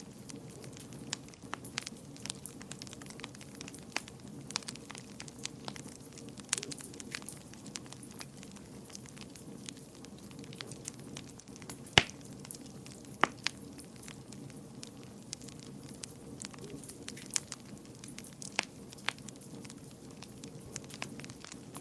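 Wood fire burning in a fireplace, crackling with sharp irregular pops over a low steady rush. The loudest pop comes about twelve seconds in, with another soon after.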